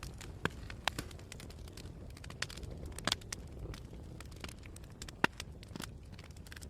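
Campfire crackling: irregular sharp pops and snaps of burning wood, a sharper pop about three seconds in and the loudest about five seconds in, over a steady low rumble.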